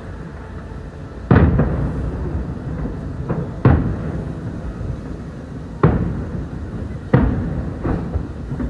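Fireworks shells bursting: four loud bangs about two seconds apart, with a few softer pops between them, each followed by a rolling rumble as it dies away.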